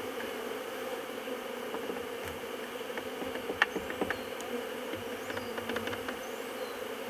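Honeybees humming steadily around an opened hive, a colony stirred up by the inspection. A few light clicks sound around the middle.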